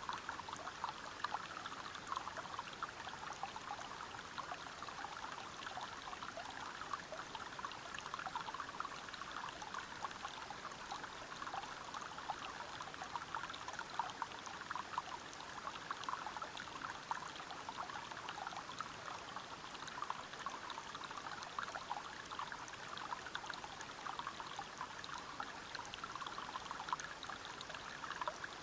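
River water flowing and splashing over rocks at a waterfall: a steady rush dense with small splashes.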